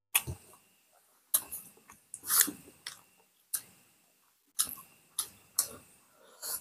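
Close-up mukbang eating sounds: wet lip smacks and chewing as boiled pork and rice are eaten by hand, a sharp smack every half-second to second.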